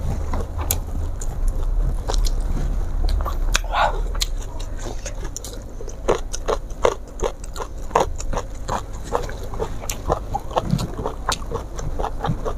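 Close-miked chewing and mouth sounds of a person eating, with a run of quick wet clicks through the second half.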